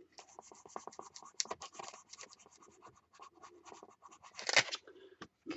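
Rub-on transfer being rubbed down onto a paper page: quick, light scratching strokes, with a louder stroke about four and a half seconds in.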